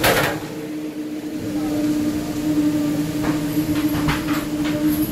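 Steady running hum of a moving passenger train, heard inside at the gangway between carriages. A sharp knock comes at the very start, and a few shorter rattling knocks follow about three to four and a half seconds in.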